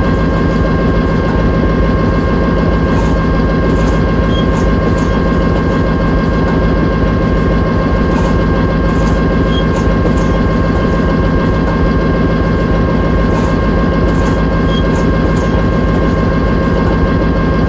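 Locomotive engine running steadily: a loud, even low rumble with a steady whine on top.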